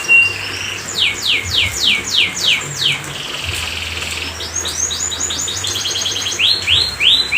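Domestic canary singing in repeated phrases: runs of high whistled notes that each sweep downward, a short buzzy stretch around the middle, then a fast trill and more sweeping notes near the end.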